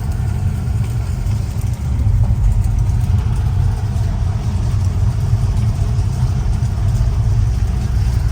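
Car driving steadily, heard from inside the cabin: a constant low rumble of engine and road noise.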